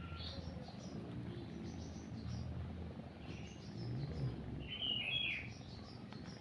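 Small birds chirping and tweeting in short scattered calls, a louder chirp about five seconds in, over a cat's low steady purr.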